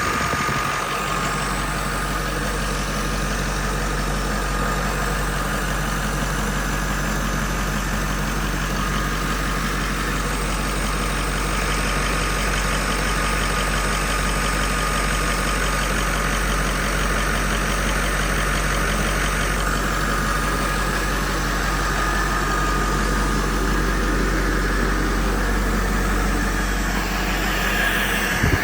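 2011 International MaxxForce 7 6.4-litre V8 twin-turbo diesel engine running at a steady idle.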